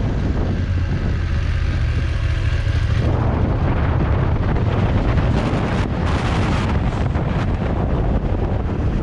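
Wind rushing over the microphone of a moving motorcycle, over the steady low drone of its engine. The wind noise eases for a couple of seconds near the start, then picks up again.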